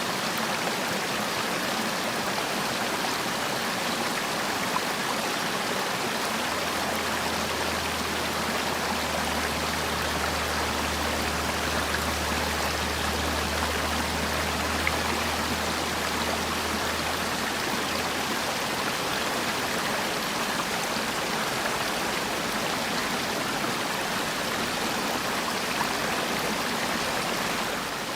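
Mountain valley stream flowing steadily, an even rush of water. A faint low rumble sits under it for about ten seconds in the middle.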